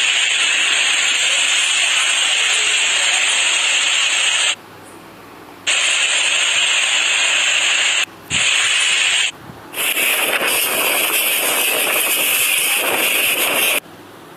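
Loud, steady rushing hiss of cyclone wind and driven rain. It drops out abruptly several times: for about a second some four seconds in, twice briefly near the middle, and shortly before the end.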